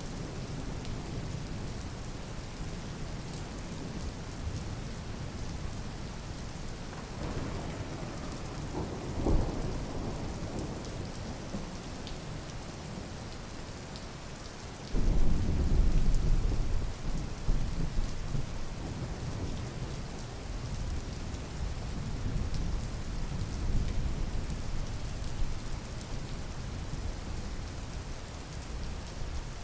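Steady rain with thunder: a rumble builds about a quarter of the way in, then a sudden loud, deep thunderclap about halfway through that rolls on for several seconds before fading back under the rain.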